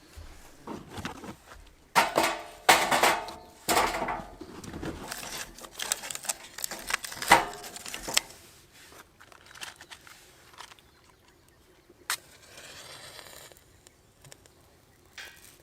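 Hands handling camp gear: irregular rustling, crinkling and small knocks and clatters, busiest in the first half, with one sharp click about twelve seconds in followed by a short soft hiss.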